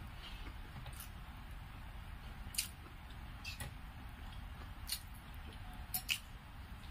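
Close-miked eating sounds: about six short, sharp, wet mouth clicks and smacks while chewing rice eaten by hand, over a low steady hum.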